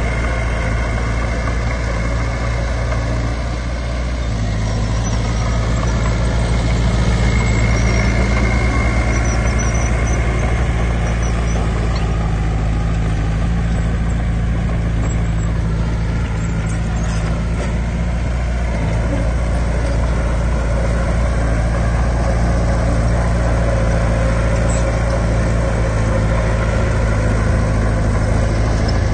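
Heavy diesel engine of earth-moving machinery running steadily, its pitch stepping up about four seconds in as the revs rise, then holding.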